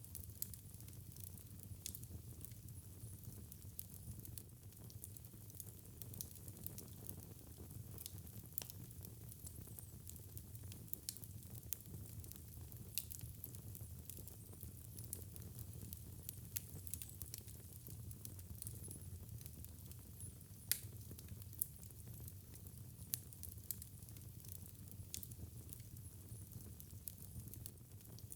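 Fire in a fireplace crackling, with frequent irregular sharp pops and snaps over a soft, steady low rumble of burning.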